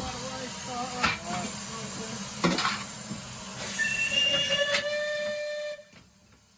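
Footplate noise of a moving steam locomotive: a steady rushing hiss with a few sharp knocks. About four seconds in, a steam whistle sounds for roughly two seconds, then the sound cuts off abruptly.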